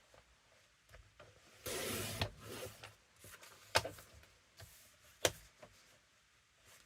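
Paper trimmer blade drawn through a sheet of cardstock, a short rasping cutting stroke about two seconds in, followed by two sharp clicks a second and a half apart.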